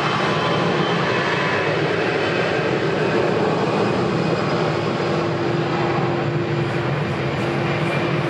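Jet airliner engines running, a steady loud rush with a faint steady tone coming in about halfway through.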